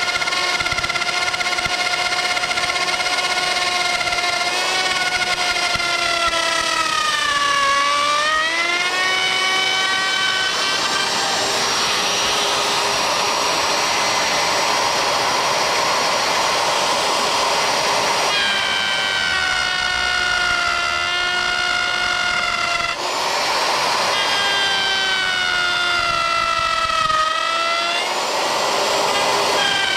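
Router motor on a DIY CNC router spinning at high speed while cutting a plate, a steady whine whose pitch sags briefly twice as the cut loads it. For a stretch in the middle the whine gives way to a rougher, noisier cutting sound.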